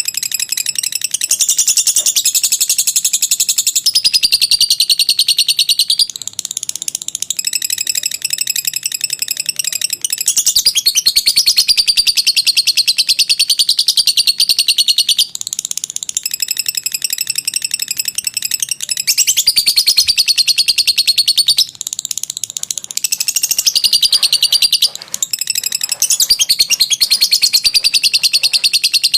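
Lovebird 'ngekek': long, very rapid, high-pitched chattering trills, delivered in runs of several seconds each with brief dips between them.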